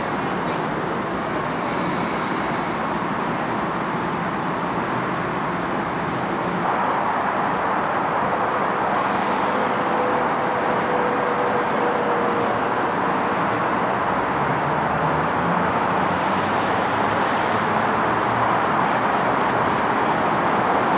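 Passenger train moving through the station: a steady, loud running noise that grows a little louder about seven seconds in, with a faint steady whine for a few seconds.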